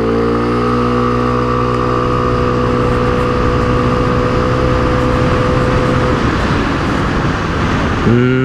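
KYMCO Racing S 125 scooter's single-cylinder engine pulling at full throttle, its note held at one steady pitch while the automatic transmission carries the scooter up to speed, over wind noise. Near the end the note drops away, then briefly jumps up again and falls.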